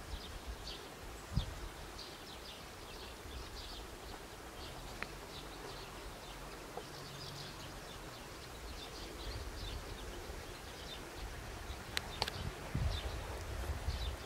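Small birds chirping over a steady low rumble of outdoor ambience, with a few sharp clicks and a low thump near the end.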